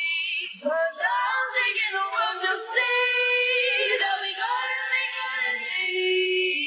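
Music with a high-pitched sung voice, its notes wavering and changing every moment.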